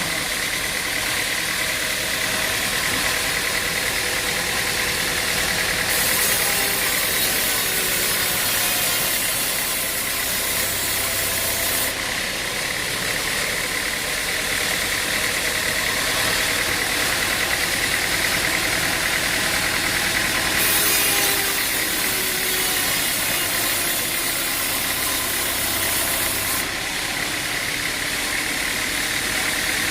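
An engine running steadily with a constant drone and a high steady whine. Twice, for about six seconds each time, a loud high hiss joins in: once about six seconds in and again a little past twenty seconds.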